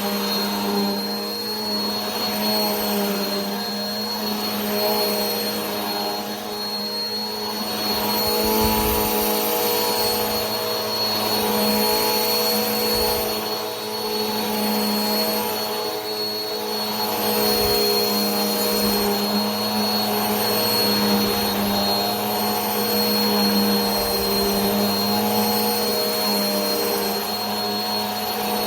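Vacuum cleaner running continuously: a steady motor hum with a thin high whine over a rush of airflow, swelling and easing gently every few seconds.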